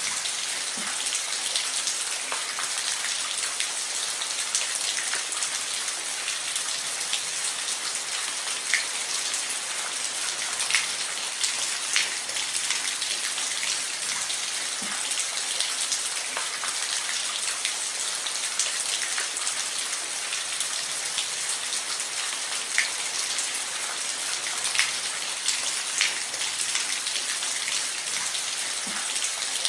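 Steady rain falling on a roof: an even hiss with scattered louder individual drop ticks.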